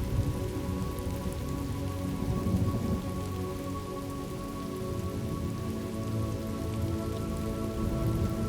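Steady rain falling as part of a thunderstorm ambience, with a few faint steady tones held underneath.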